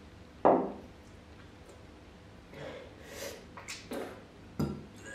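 A man breathing hard and blowing out through his mouth against the burn of a raw bird's eye chilli, with two short sudden vocal sounds, one about half a second in and one near the end.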